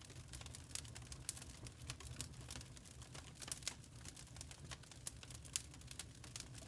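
Burning charcoal crackling: a fast, irregular patter of small pops and ticks of varying strength, faint overall, over a low steady hum.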